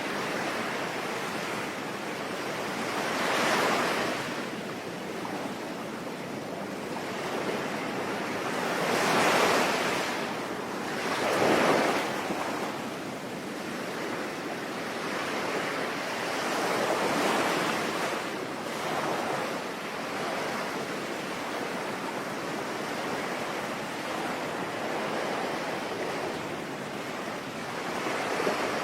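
Sea waves breaking and washing on a shore over a steady hiss of rain, the surf swelling and falling back every few seconds, with the biggest waves about 9 and 11 seconds in.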